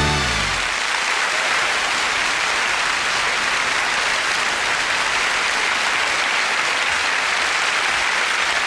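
A studio audience applauding steadily after a song-and-dance number, with the band's last chord dying away about half a second in.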